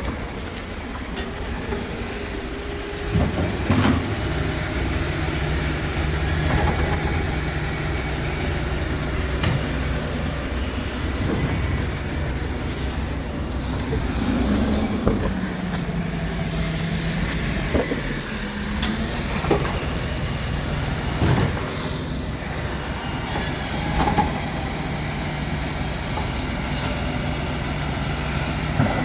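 Rubbish truck's diesel engine running steadily with the pitch dropping about halfway through, broken by several sharp knocks and clanks.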